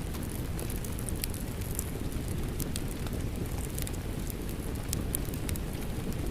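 Steady rain mixed with a crackling wood fire: an even low rush of rain under frequent small, sharp pops and snaps from the fire.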